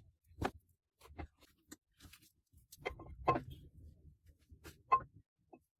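Scattered light knocks and clinks, about half a dozen, a couple of them with a brief ring, separated by quiet gaps.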